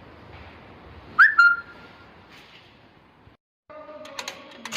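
A short, loud whistle-like chirp about a second in that slides in pitch and then briefly holds a high note. After a short break, a different steady hum with a few clicks starts.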